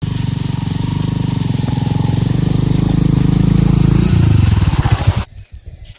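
Engine running steadily, then slowing in pitch and cutting off about five seconds in.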